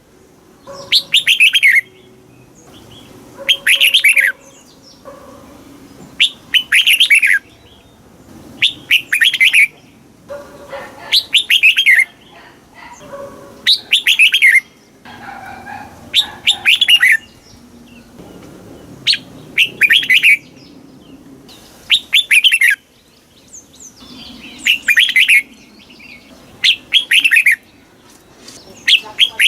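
Red-whiskered bulbul singing, repeating short phrases of quick, clear whistled notes that fall in pitch, about one phrase every two to three seconds.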